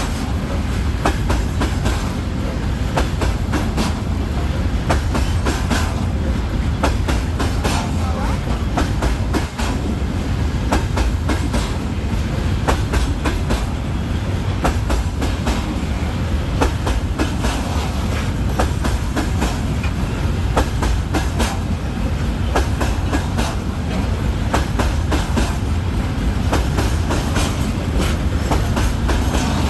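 Freight train wagons rolling on the rails: a steady low rumble with frequent clicks of the wheels over rail joints.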